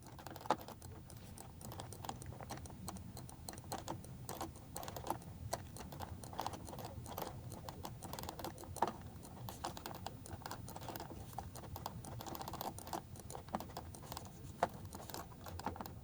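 Faint, irregular clicking of a computer mouse and keyboard, with a low hum behind.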